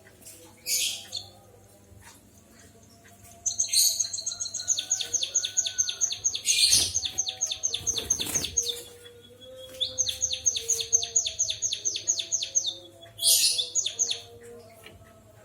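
Emprit kaji (white-headed munia) singing a canary-like song: two long, rapid trills of high, evenly repeated notes, broken by a few short harsh chirps.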